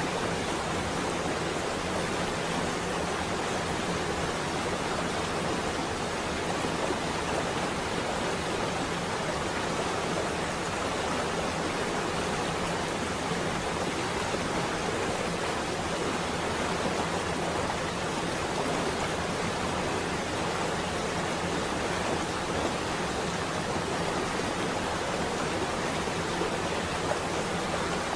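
Steady rain on a window, an even hiss with no thunder.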